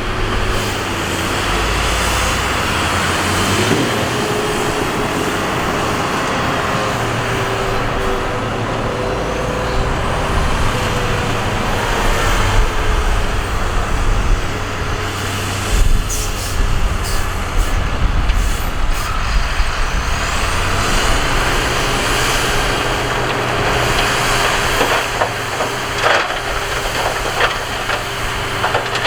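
Heavy diesel earthmoving machinery running steadily with a loud engine drone and hissing, and a few sharp knocks around the middle and near the end.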